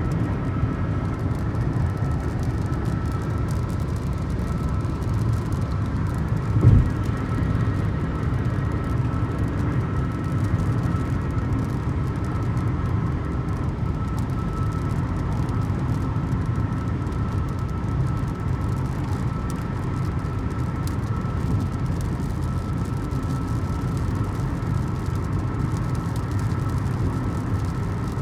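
Steady road and engine noise of a car driving on the highway: a low rumble with a faint steady whine, and a single thump about seven seconds in.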